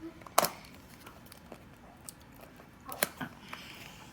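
Handling noise as small toy vehicles are picked up and set down: one sharp click about half a second in and a few lighter clicks near the end.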